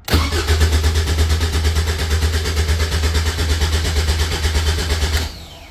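Starter motor cranking the cold supercharged 2.0-litre Ford Duratec four-cylinder of a Caterham 7 620S in a steady, even rhythm for about five seconds without the engine catching, then stopping abruptly.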